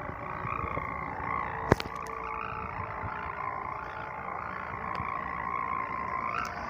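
Sendaren kite hummer on a flying pegon kite, buzzing in a steady wavering drone as the wind works its vibrating bow. A single sharp click about two seconds in.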